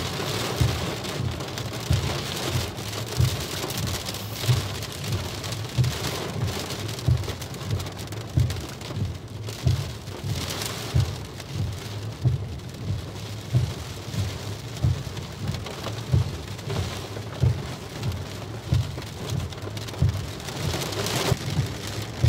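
Heavy rain beating on a car's roof and windscreen, heard from inside the car, with frequent irregular low thumps.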